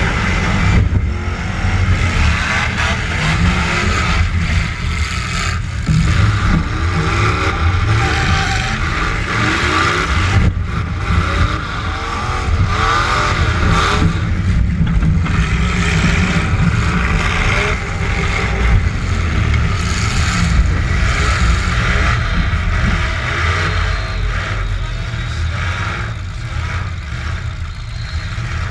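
Demolition derby truck engine revving hard, its pitch repeatedly climbing and dropping as it accelerates and backs off.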